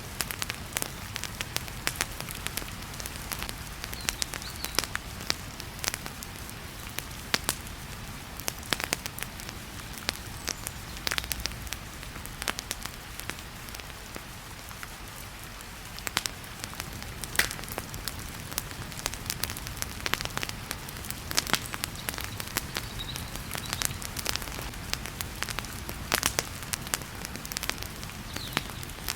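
Wood fire crackling in a fireplace, with frequent sharp pops over a steady rush of heavy rain.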